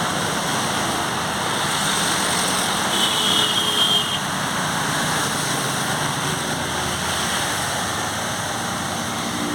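Hyundai Verna car engine running steadily during an engine carbon cleaning (decarbonising) treatment, with a steady hiss; a brief high tone sounds about three seconds in.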